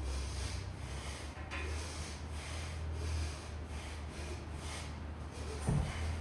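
A person breathing hard through the nose and mouth in repeated strong exhales, typical of recovery between sets of heavy deadlifts and chin-ups. A steady low hum runs underneath, and a short dull knock comes near the end.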